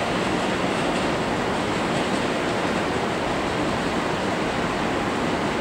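JR Central 313-series electric train approaching at low speed, a steady running and track noise with no distinct wheel clicks.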